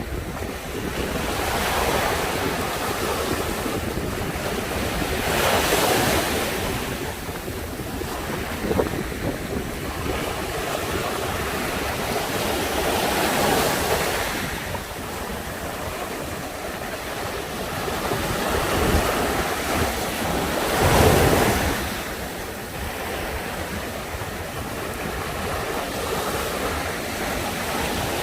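Sea waves breaking on the shore, the rush of surf swelling and fading every few seconds, with one especially big break about three quarters of the way through. Wind buffets the microphone underneath.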